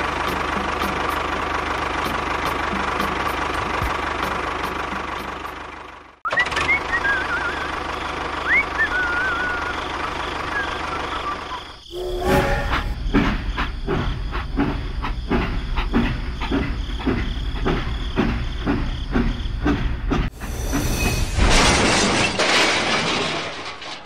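Dubbed vehicle sound effects in several parts. A steady motor hum cuts off about six seconds in and restarts with a few short whistling chirps. Next comes a rhythmic clatter of train wheels over rail joints, about two beats a second, and a loud hiss near the end.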